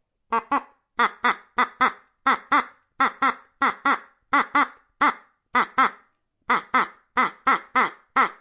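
An animal calling in short, sharp notes that come in quick pairs, about one pair every two-thirds of a second, repeated steadily.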